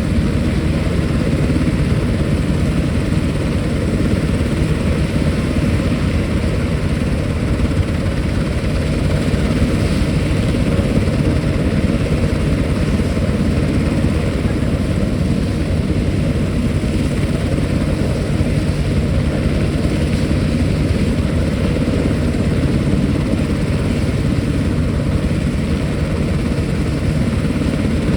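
Military helicopter's rotor and turbine engine running, loud and steady.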